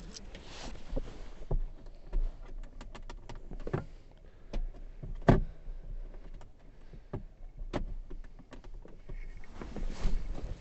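Scattered light clicks and knocks, as of objects or tools being handled, with one louder knock about five seconds in.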